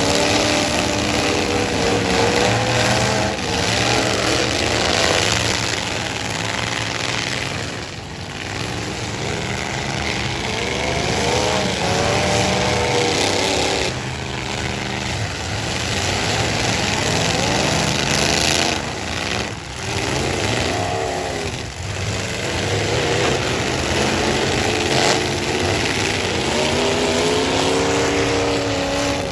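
Several full-size pickup truck engines revving hard and dropping back again and again, the pitch climbing and falling every few seconds as the trucks ram one another in a demolition derby.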